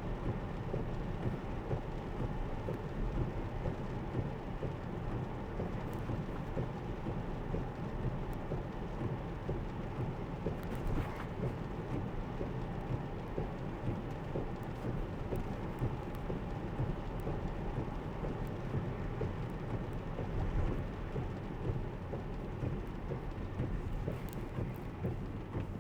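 Rain falling on a Tesla's roof and windshield with steady tyre and road noise, heard from inside the cabin.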